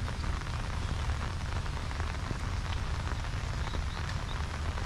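Steady monsoon rain falling, a dense hiss scattered with many small drop ticks, over a constant low rumble.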